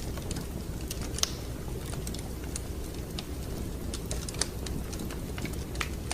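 Wood fire crackling in a fireplace: a steady low rumble of flame with irregular sharp snaps and pops, a louder pop about a second in and another past the middle.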